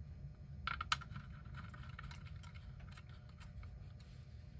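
Faint clicks and light scraping of small parts being handled as rubber spacers are pushed onto the screw posts of a clock movement, the clearest clicks about a second in, over a low steady hum.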